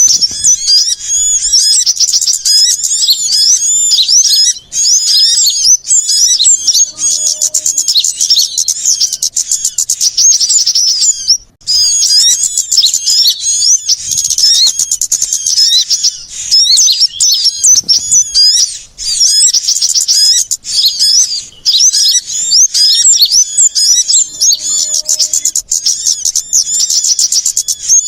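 Bird-lure recording of a noisy crowd of small songbirds calling at once: a dense, loud run of rapid, high chirps and trills, with a brief break about eleven seconds in.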